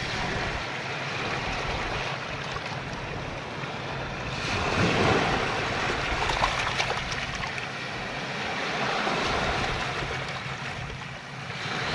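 Ocean waves washing in, a continuous rush of surf that swells to its loudest about halfway through and rises again more gently near the end.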